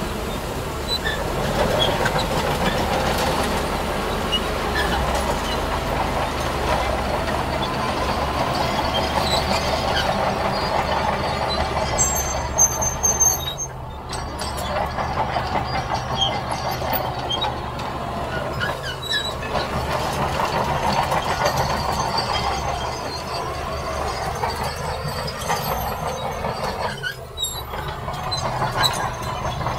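Tracked earthmoving machinery working sand: a diesel engine running steadily under metallic track clatter, with a brief high squeal near the middle.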